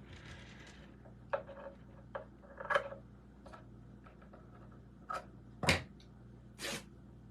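Scattered short handling noises, light knocks and brief rustles, as fabric and craft supplies are moved about on a work table, about half a dozen in all with the sharpest a little before the end.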